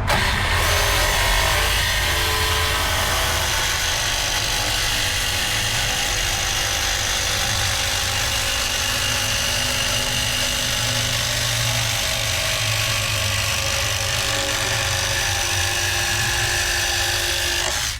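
Electric power saw cutting through a vinyl flooring plank along a marked line: a steady motor whine over dense cutting noise that stops abruptly near the end.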